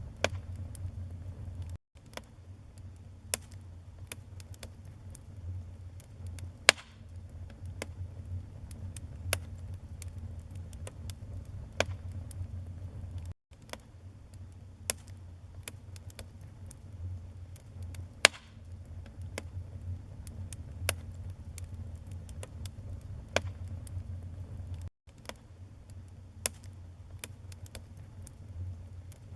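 Wood fire burning in a fireplace: a steady low rumble of flames under irregular sharp crackles and pops, with a few louder snaps. The sound drops out for an instant three times.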